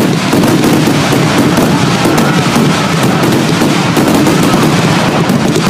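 Fireworks finale barrage: aerial shells bursting in rapid, overlapping reports, packed into a loud, continuous volley.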